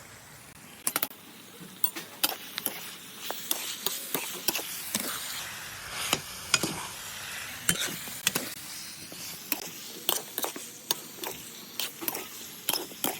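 Chicken curry with its masala sizzling in a pot while it is stirred, with a steady frying hiss and frequent irregular clinks and scrapes of the stirring spoon against the pot.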